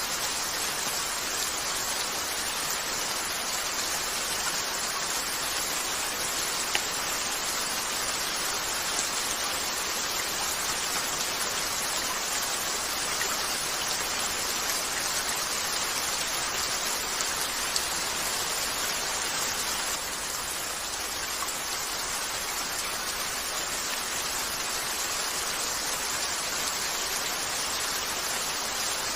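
Steady, even rain hiss on a cabin window, with a few faint crackles from the fireplace. It turns slightly softer about twenty seconds in.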